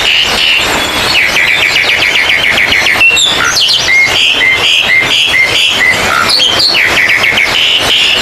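Dense chorus of songbirds, led by oriental magpie-robins (kacer), singing loudly at once: a rapid trilled run about a second in, a string of short repeated whistles in the middle, and another fast run near the end over a continuous high chatter.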